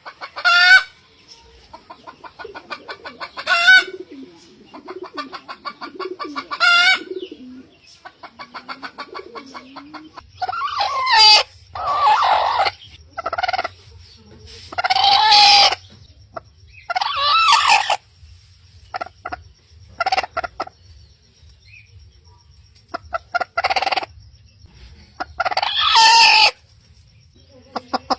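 Rooster crowing about ten times, with rapid chicken clucking between the crows. A faint low hum comes in about ten seconds in.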